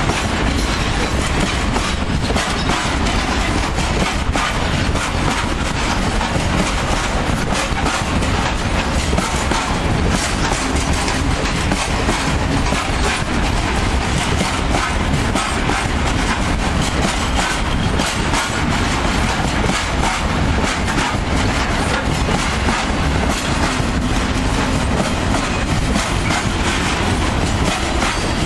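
Long freight train of open-top Eaos gondola wagons rolling past close by: a steady, loud noise of wagon wheels running on the rails, with a dense train of clicks from wheels passing over the rail joints.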